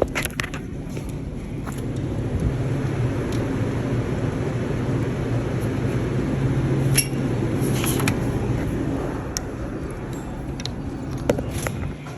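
Steady low rumble of a car's engine and road noise heard from inside the moving car, with a few light clicks and knocks.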